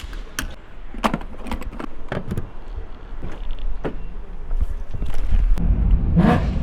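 A string of clicks and knocks from handling around a car, then a low engine rumble comes up about five seconds in and holds to the end.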